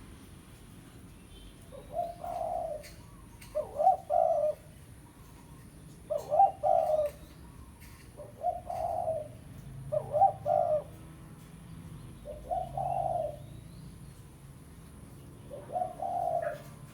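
Spotted dove cooing, seven phrases about every two seconds with a longer pause before the last, each a short note run into a longer low coo.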